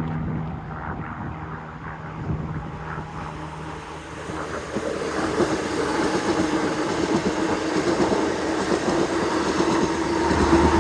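A pair of Class 387 electric multiple units passing slowly, the rail noise growing louder from about four seconds in, with a steady humming tone building towards the end.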